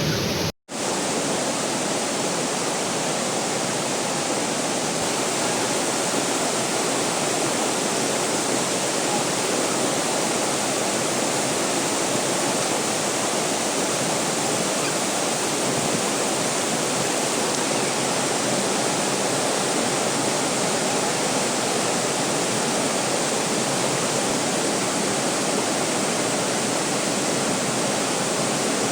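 A waterfall: falling water rushing steadily, with one brief cut to total silence about half a second in.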